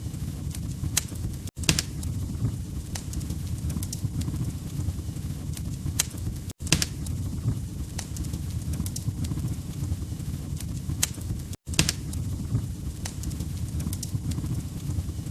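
Wood fire crackling in a fireplace: a steady low rumble of burning logs with scattered sharp pops and snaps. The sound cuts out for an instant three times, about five seconds apart.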